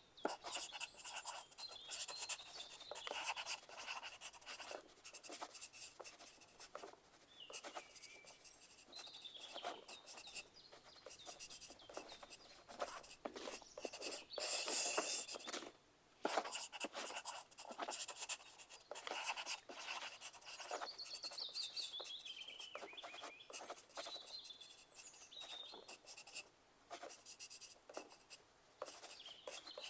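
Pencils scratching on paper in irregular strokes, the sound of students writing answers during an exam, with a few high chirps between.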